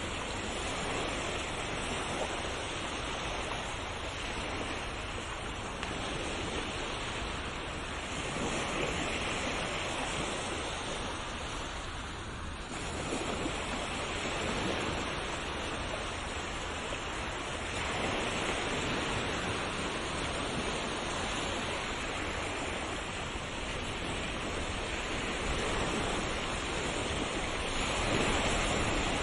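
Sea waves breaking and washing ashore in a continuous wash of surf. The sound swells and eases every few seconds, with a brief lull about twelve seconds in.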